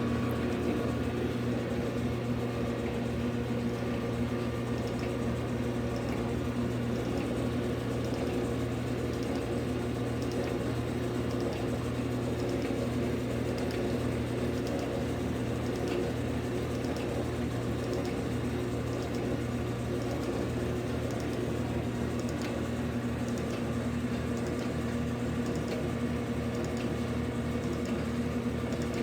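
Old Jet metal lathe's 110-volt electric motor and drive running steadily on a test run, with a steady mains hum and a faint regular ticking.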